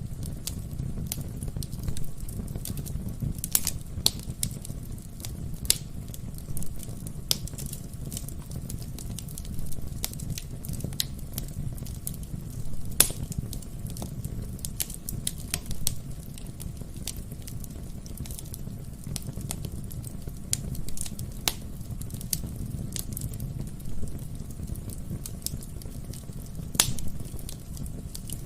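Wood fire in a fireplace crackling: frequent sharp pops and snaps over a steady low rumble, with the loudest pops about 13 seconds in and near the end.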